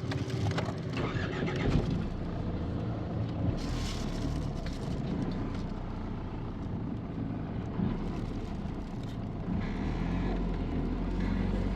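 Motor vehicle engine running steadily while driving, a low even hum, with a brief hiss about four seconds in and again near the end.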